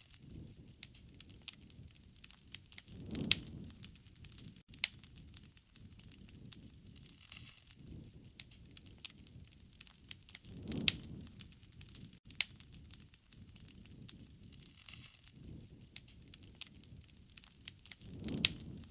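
Wood fire crackling and popping with many sharp snaps, while a low rumble of the flames swells and fades three times, about every seven and a half seconds.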